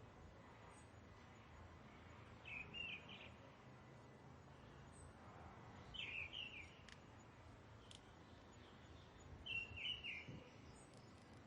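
A bird calling three times, each call a short cluster of choppy high notes, about three and a half seconds apart, over a faint steady outdoor hiss.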